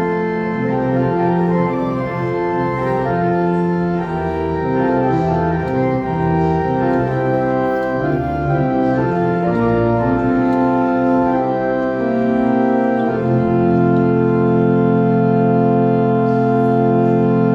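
Organ playing slow sustained chords with moving inner notes, settling about three-quarters of the way through on a long held final chord.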